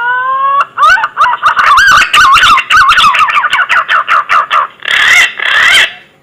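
Pink-necked green pigeon (punai gading) calling: a rising whistled note, then a rapid run of warbling, bending whistles, ending with two harsher notes.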